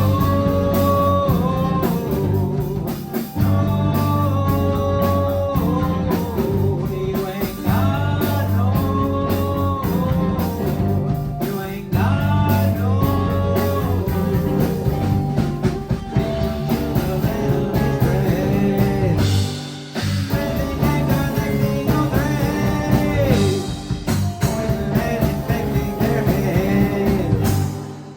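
Live rock band playing a song, guitar prominent over bass and drums, with sustained melody lines; the band drops out briefly about twenty seconds in before carrying on.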